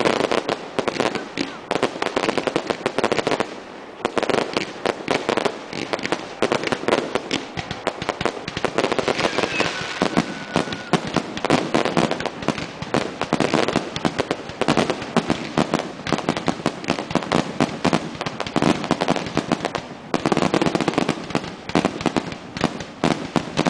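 Fireworks finale: a dense, unbroken barrage of aerial shell bursts and crackle, many bangs a second, easing briefly about 4 s and 20 s in.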